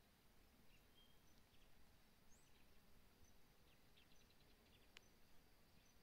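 Near silence outdoors: faint, scattered bird chirps over low background noise, with a quick run of soft ticks about four seconds in.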